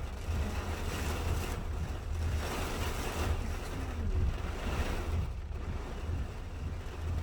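Steady rain falling, with a low wind rumble on the microphone; the hiss of the rain swells twice as the wind gusts.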